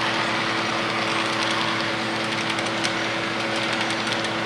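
HO scale model train running on the layout: a steady whir with a steady hum under it, and faint irregular ticking from about a second in.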